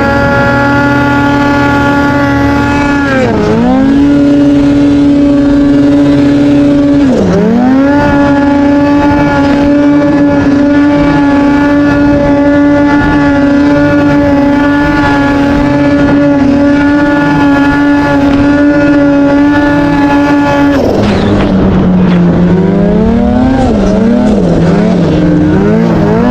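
Snowmobile engine running hard at high revs in deep snow. Its pitch dips sharply and recovers twice in the first eight seconds as the throttle is eased and reapplied. About five seconds before the end the revs drop lower and rise and fall unevenly.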